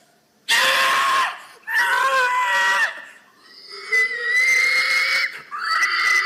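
A person giving hog calls: four loud, high-pitched screaming cries with short breaks between them. The first is harsh and raspy, and the last is held steady.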